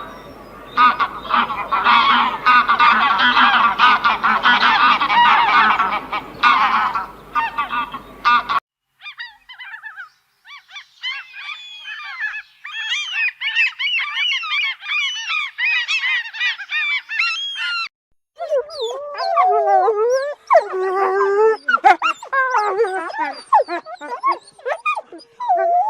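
Three back-to-back clips of farm animals calling: first a dense, noisy flock chorus, then after a brief break a run of high chirping calls, then lower, wavering calls from about two-thirds of the way in.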